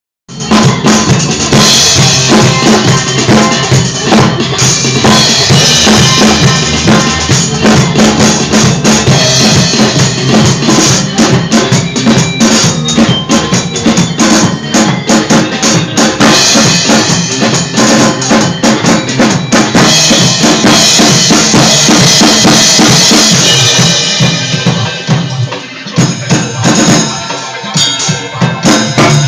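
Drum kit played with sticks along to a recorded song, with bass drum and snare in a steady beat. It starts at once, is loud, and eases off briefly about 25 seconds in before picking up again.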